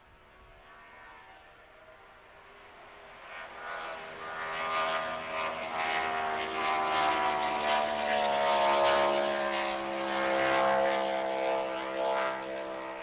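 Grand Prix hydroplane race boat's engine passing by on a run. It grows from faint to loud over several seconds, shifting in pitch as it goes, then starts to fade near the end.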